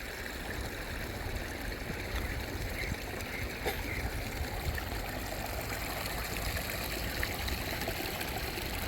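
Running water flowing steadily, a continuous rushing trickle.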